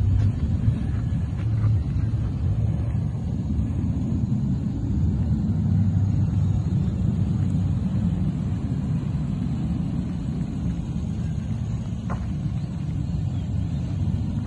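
2013 BMW 316i's 1.6-litre four-cylinder engine idling steadily, a low, even rumble.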